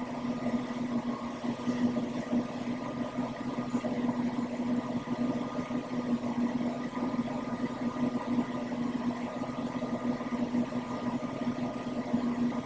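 Vehicle engine idling, heard from inside the cabin as a steady hum.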